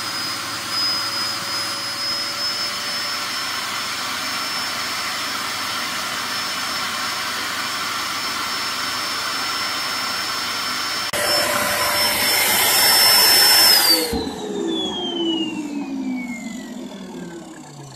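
2007 Hoover Performer Pet HPT16 upright vacuum cleaner running steady with a high whine. About eleven seconds in, a sudden louder rush of air lasts about three seconds. Then the motor cuts out and winds down, its pitch falling steadily. The owner later finds the vacuum blocked where the dirt goes in.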